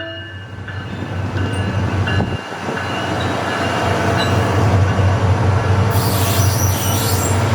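Passenger train running through the station, with a steady low engine rumble and rolling noise that builds gradually. Wheels squeal on the rails near the end.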